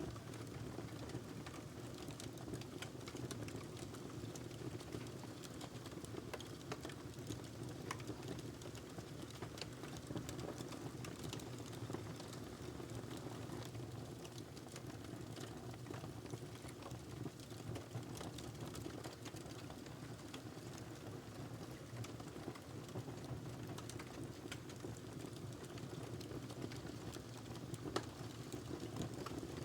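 Wood fire crackling in a fireplace: a steady low rush from the flames with scattered small pops and snaps, and one sharper pop near the end.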